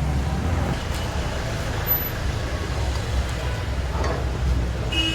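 Steady low rumble of motor vehicle traffic, with heavy vehicle engines running close by.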